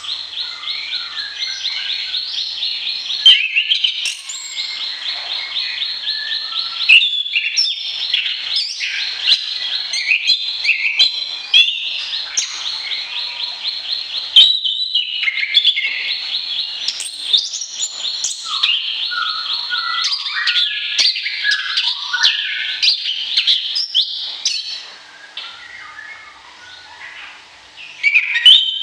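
Songbird singing continuously: long, rapid trills alternating with varied chirping phrases, softer for a few seconds near the end.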